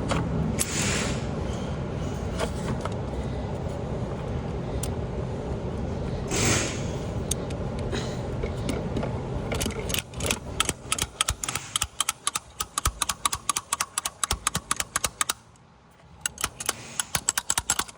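Socket ratchet clicking in rapid runs, starting about halfway through and pausing briefly near the end, as a fastener is worked on a fuel injector of a Range Rover 5.0 V8. Before it there is only a steady background rush with two short hissy swells.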